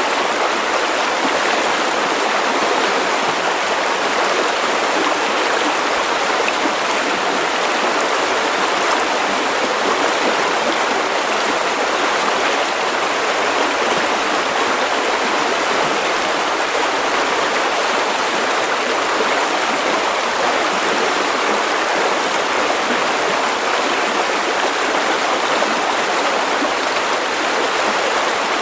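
River water running over stones, a steady, even rushing and burbling.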